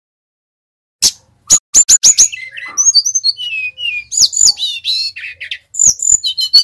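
Brown-chested jungle flycatcher (sikatan rimba dada coklat) singing: after a second of silence, a fast, varied string of sharp chips and whistled notes that glide up and down.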